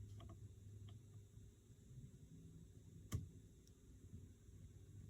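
A sharp metallic click about three seconds in and a few faint ticks near the start, from hand tools and small parts being handled, over a low steady hum.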